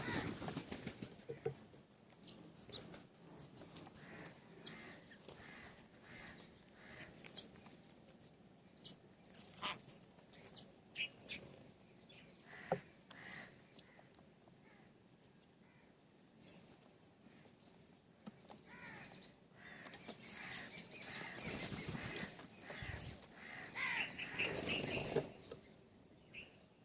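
Birds at a feeder: wings flapping, short chirps and scattered sharp taps, with a busier flurry of wingbeats and calls near the end.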